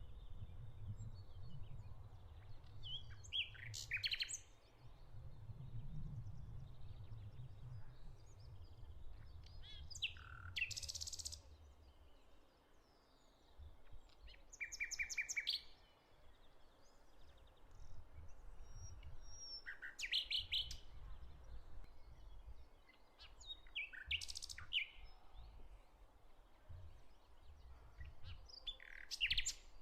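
Songbirds singing and chirping outdoors in short phrases every few seconds, over a faint low rumble of wind or distant background noise.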